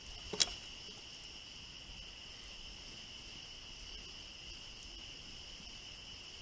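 Steady high-pitched insect chorus, like crickets in a summer meadow, holding an even two-pitched drone. A single sharp click sounds about half a second in.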